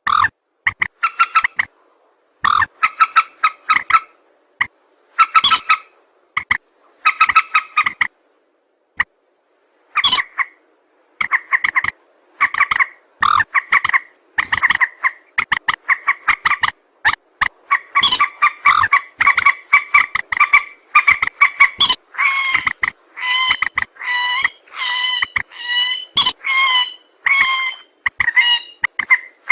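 Recorded lure calls of a mandar, a rail or moorhen-type waterbird, played as a bird-trapping call. The calls are rapid runs of short, repeated clucking notes that come in bursts of a second or two with abrupt breaks between them, and they grow denser and higher-pitched in the second half.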